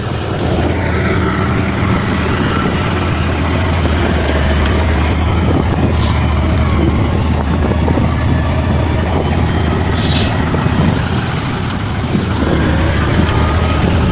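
Bulldozer's diesel engine running steadily with a deep hum, and two brief hisses about six and ten seconds in.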